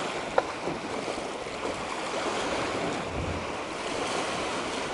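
Strong wind buffeting the microphone over waves splashing at the shore, with one short sharp click about half a second in.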